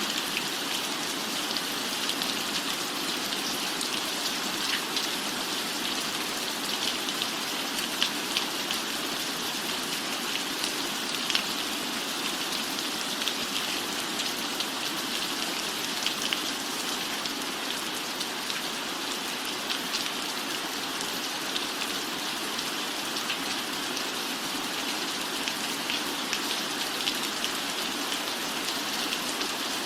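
Steady rain, an even hiss with many small drop ticks scattered through it.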